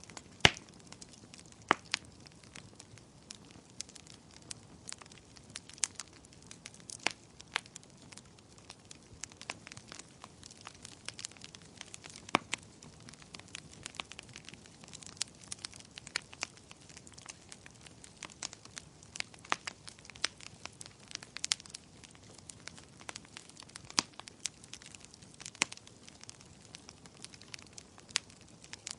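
Wood fire crackling in a fireplace: a low hiss with irregular sharp pops and snaps, the loudest about half a second in.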